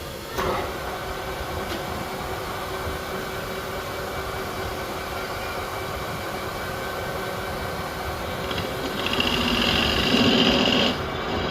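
A small machine running steadily. Its sound rises to a louder, higher whine for about two seconds near the end, then drops back.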